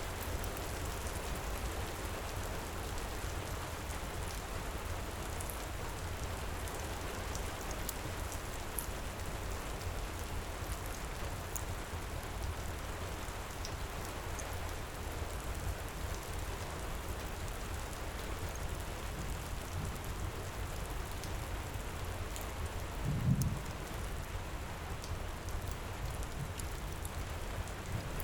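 Steady heavy rain pouring down, with a few faint sharp crackles from a wood fire. One brief low rumble comes about three-quarters of the way through.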